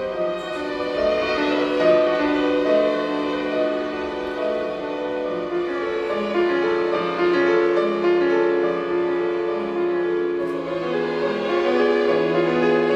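Chamber string orchestra with piano playing slow classical music in long, held notes that change slowly.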